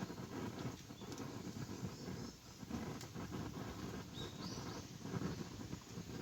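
Wood campfire burning: a low rush of flames with irregular snaps and crackles from the burning wood. A short, thin, rising whistle sounds about four seconds in.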